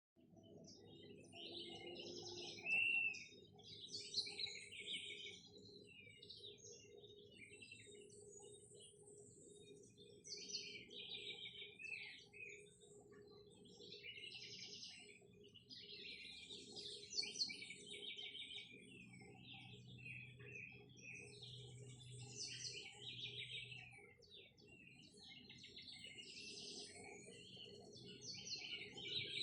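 Several birds chirping and singing over one another in quick short phrases, with a faint steady low hum underneath.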